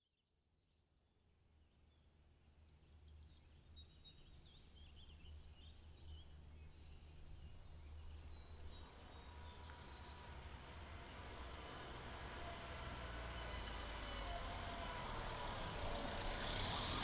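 Street ambience fading in from silence: birds chirping over the low rumble of a vehicle, which grows steadily louder toward the end.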